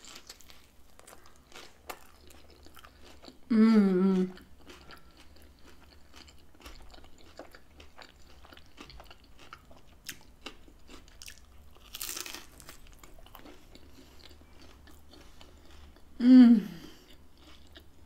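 Close-up chewing of a crispy fried pizza-dough empanada with beef taco filling, salsa and lettuce, with many small crisp crunches. Two short hummed "mm" sounds of enjoyment, about four seconds in and near the end, are the loudest sounds.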